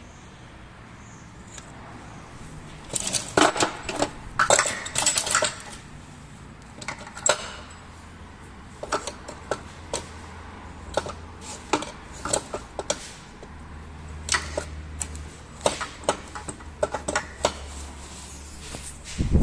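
Metal parts and tools clinking and clattering in irregular bursts, heaviest a few seconds in, over a faint low hum.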